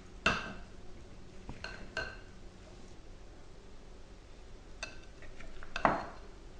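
A few knocks and clinks of a bowl and kitchen utensils, some ringing briefly. The two loudest knocks come just after the start and near the end.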